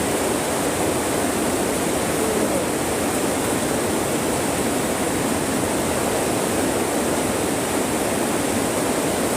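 Rain falling steadily on a plastic-covered high tunnel greenhouse, heard from inside as a loud, even hiss.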